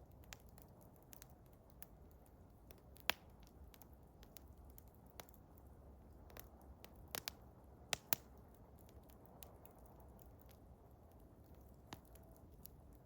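Eastern hemlock wood fire crackling: scattered sharp pops, the loudest about three seconds in, a cluster around seven to eight seconds, and another near the end, over a faint low hiss.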